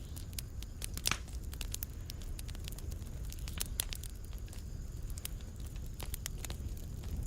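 Fireplace fire crackling: frequent, irregular sharp snaps and pops over a low steady rumble, with one louder pop about a second in.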